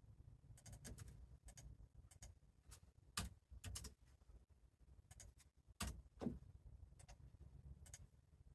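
Faint, irregular small clicks and taps, unevenly spaced, with a few louder ones about three and six seconds in, over a low steady hum.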